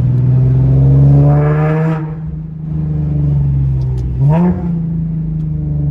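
Infiniti G37's 3.7-litre V6 accelerating on its exhaust as it is before the new system is fitted, heard with the windows down. The engine note climbs in pitch over the first two seconds, then eases off, with a brief sharp rise in pitch about four seconds in.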